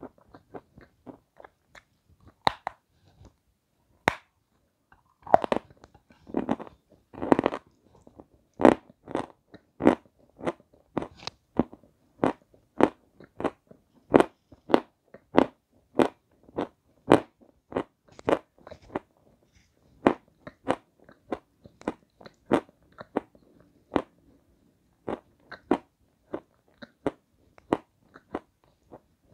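Close-miked crunchy chewing of a snow-white, chalk-like block: a few sharp bites in the first seconds, then a steady run of crunches about two a second.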